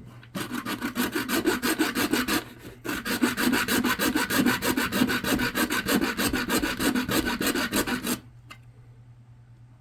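Hacksaw cutting through thick solid plastic, a chart plotter's card-reader housing, in quick, even rasping strokes. The strokes stop briefly near 3 s and end about 8 s in.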